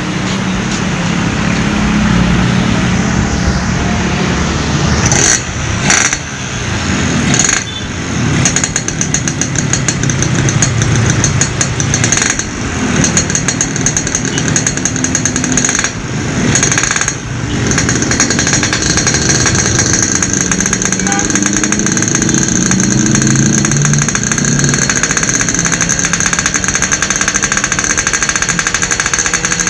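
Yamaha RX-King's single-cylinder two-stroke engine running through an aftermarket racing exhaust, revved up and down in several short blips in the first half, then held at a steady rev with a fast, rattly pulse.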